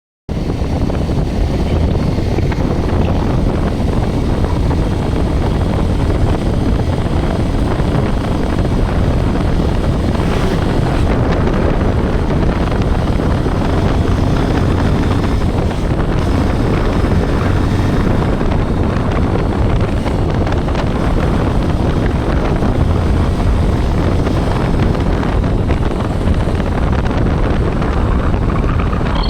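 Steady wind buffeting a rider's microphone on a moving Bajaj Pulsar 125 motorcycle, its single-cylinder engine running under the wind noise.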